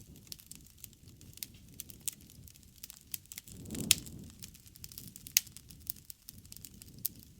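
Wood campfire crackling, with irregular sharp pops over a low rumble of the flames; the loudest pop comes about four seconds in, as the rumble briefly swells.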